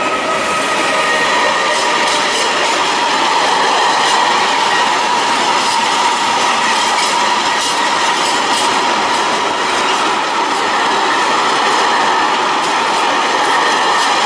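Freight train of covered wagons rolling past close by: a steady loud rumble and rattle of steel wheels on rail, with a thin, steady high squeal running through it.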